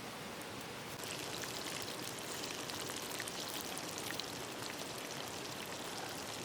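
Dense crackling sizzle of food frying in hot oil, starting about a second in, over a steady hiss of running water.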